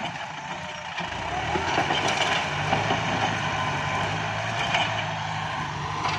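Kubota MU5702 tractor's diesel engine running steadily at work, with scattered sharp cracks and short wavering squeals over it.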